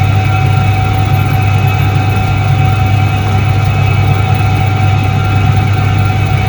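1978 Soviet Iset-3 washing machine running, its electric motor giving a steady, loud low hum with a constant whine above it.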